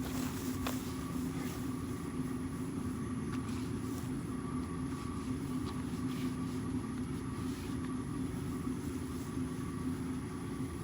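A steady low mechanical hum with a constant pitch, like a running engine or traffic, with a few faint clicks over it.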